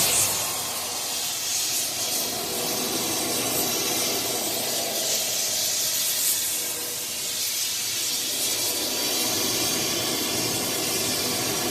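Oxygen-propane torch with a rosebud heating tip burning with a steady hiss.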